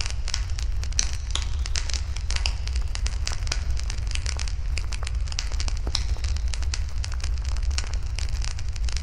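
Wood fire burning, crackling with many irregular sharp pops and snaps over a steady low rumble.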